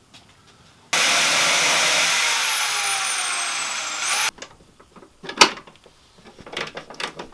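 A power tool runs for about three seconds with a high whine that slowly falls in pitch, then stops abruptly. A few sharp knocks follow.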